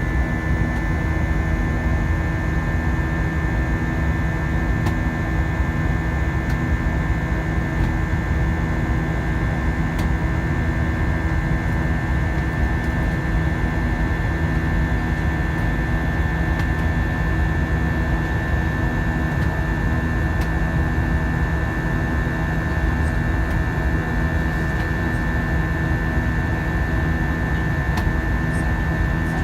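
Airbus A320 airliner in flight, heard from inside the cabin: a steady drone of jet engines and airflow, with a deep rumble and steady tones over it, and one low tone pulsing on and off about once a second.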